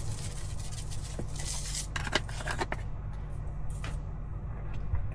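Seasoning being shaken into a pot of meat and vegetables, with rustling and a quick run of light clicks and taps about two seconds in, then a few scattered ticks, over a steady low hum.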